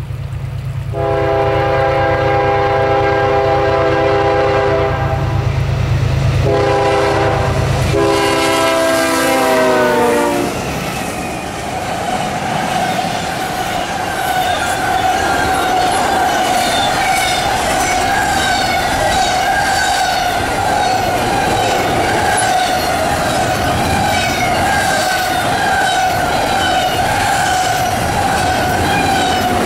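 CSX diesel locomotives rumble past and sound a multi-chime air horn in three blasts, a long one, a short one, then a long one whose pitch drops as the locomotives go by. Then a long string of double-stack container cars rolls past with a rhythmic clatter of wheels over rail joints and a steady high ringing from the wheels.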